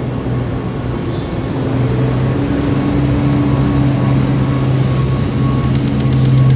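DD200 diesel-electric locomotive's engine running with a steady low hum that grows louder about two seconds in. Near the end a rapid, even series of faint high clicks begins.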